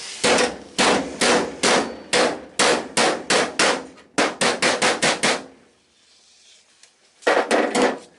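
Hammer striking the Mini's steel body panel to knock an edge back and close a gap. Sharp, ringing metal blows, about two to three a second, speed up toward the end of the run. After a short pause comes a quick flurry of a few more blows.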